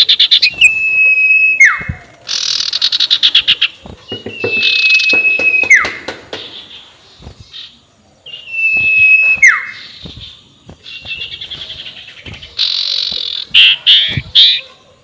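Sirtu owl cackling call ('ngekek'), played as a lure: bursts of rapid, high chattering pulses alternating with a held high whistle that drops sharply at its end, the cycle repeating about every four seconds.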